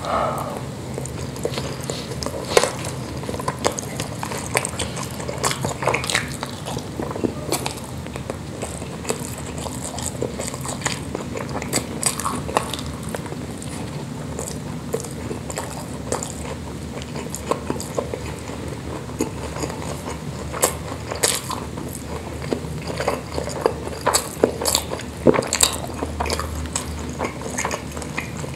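Close-miked chewing of spicy Indonesian meatballs (pentol mercon) with rice, mouth-sounds eating with many short scattered clicks throughout.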